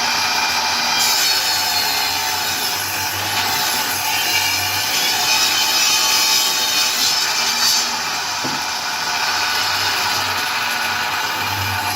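Underpowered small table saw cutting through wood with a 10-inch blade, the saw running continuously. The motor bogs down and slows under the load of the cut.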